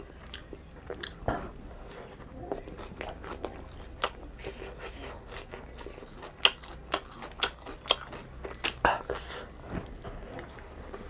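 A person chewing and biting food close to the microphone: irregular crunching clicks, several a second, with one sharper crunch about six and a half seconds in.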